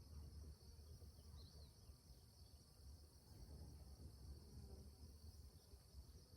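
Faint outdoor ambience: a steady, high-pitched insect chorus, crickets, over a low rumble, with a brief chirp about one and a half seconds in.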